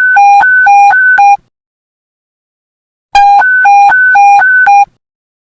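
Police panic button alarm: a loud electronic two-tone beep switching between a low and a high pitch about four times a second. It sounds in two bursts of under two seconds each, with a silent gap of nearly two seconds between them.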